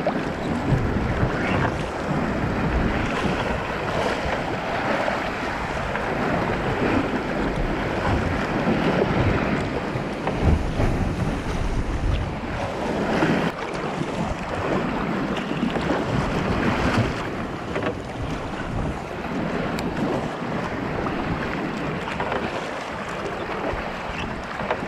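Wind buffeting the microphone over waves washing and splashing around a kayak on open water, the noise swelling and easing every few seconds.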